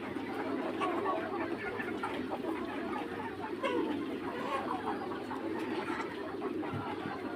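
A flock of three-month-old Mía chickens clucking, with many short calls overlapping without a break.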